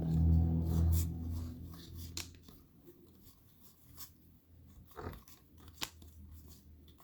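Trading cards being handled and shuffled through from a freshly opened pack, with scattered light clicks and snaps as cards slide off one another. A low hum fades out over the first two seconds.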